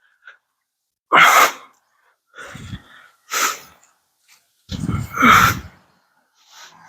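A person's short, sharp bursts of breath, four in all, the last and loudest voiced like a sneeze about five seconds in.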